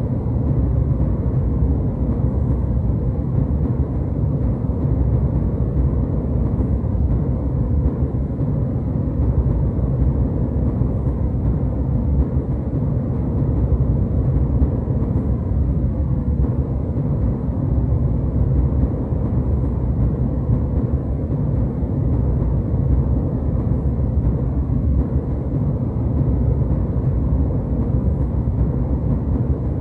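Steady, even rumble of a jet airliner's cabin in flight: engine and airflow noise, heaviest in the low end, unchanging throughout.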